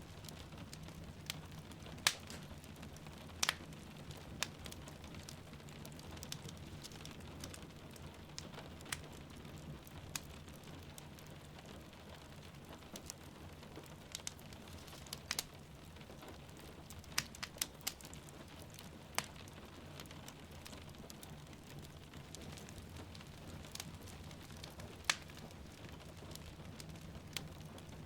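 Wood fire crackling, with irregular sharp pops, a few of them louder, over a steady hiss of rainfall.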